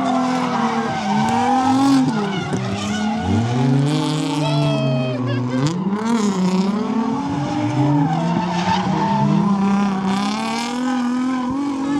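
Car engine revving up and down over and over, its pitch rising and falling every second or two, with tires squealing as the car slides under power.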